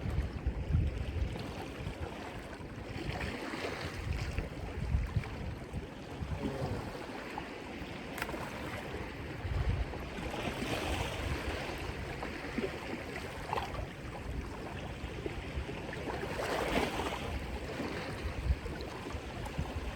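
Surf washing and surging against shoreline rocks in swells, with wind gusting on the microphone. There is a single sharp click about eight seconds in.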